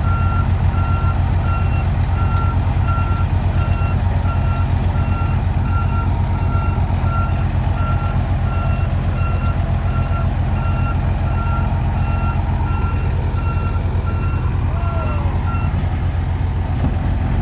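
Reversing alarm on a heavy paving-site vehicle, beeping steadily on and off over its loud engine running. The beeping stops about 16 seconds in.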